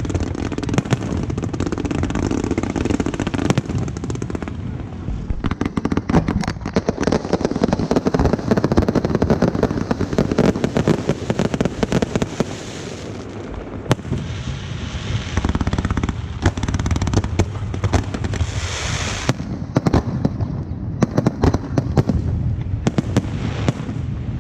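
Aerial fireworks going off in a dense, near-continuous barrage of bangs and crackling, with a stretch of hissing crackle in the later half.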